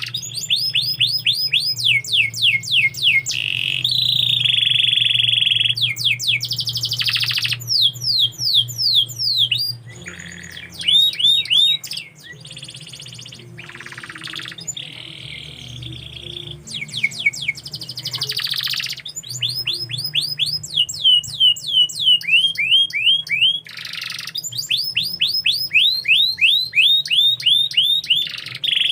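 Domestic canary singing a long, varied song: fast trills of quickly falling high notes alternating with held whistled tones, with a quieter stretch in the middle.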